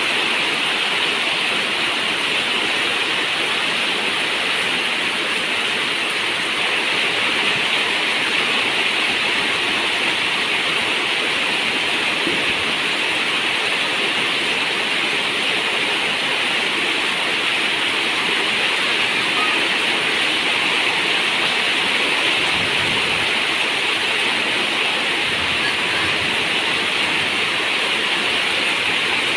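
Heavy rain falling on a zinc roof, making a steady, dense hiss with no separate drops standing out.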